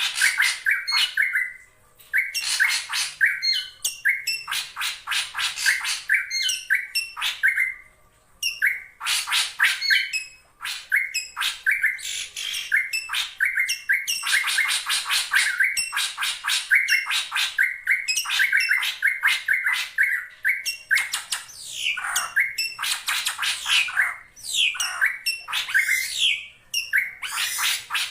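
Drongo calling almost without a break: rapid runs of harsh, scratchy notes mixed with short gliding whistles, with brief pauses about two and eight seconds in. These are rival-challenge calls, as used to lure other drongos.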